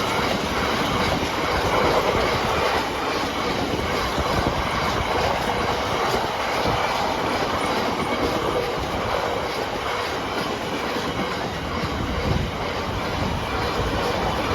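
Freight train wagons rolling past at speed behind a Class 66 diesel locomotive: a steady, loud rumble with a faint, even clatter of wheels over the rails.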